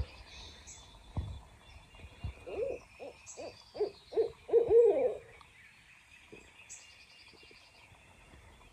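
Owl hooting: a rhythmic run of about eight hoots a few seconds in, the last one drawn out and falling in pitch.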